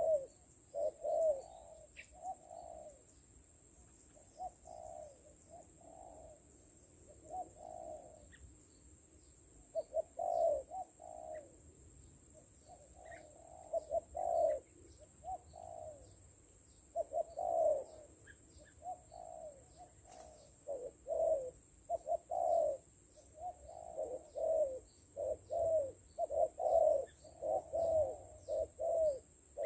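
Spotted doves cooing: short, falling coos repeated in rhythmic phrases, thickest in the second half, over a faint steady high-pitched hiss.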